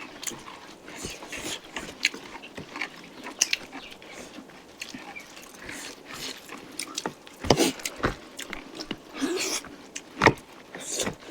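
Close-miked eating of chicken curry: chewing and mouth sounds with many small crackles, and a few sharper, louder crunches or clicks in the second half.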